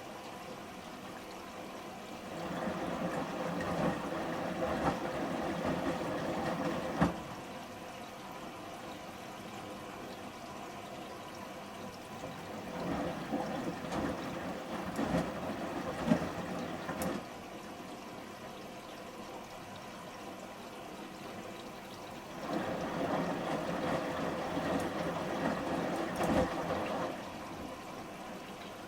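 Samsung front-loading washing machine in its rinse cycle: the drum turns in three spells of about four seconds, rinse water and shirts sloshing in it, each spell ending with a thud as the load drops. A quieter steady hum fills the pauses between spells.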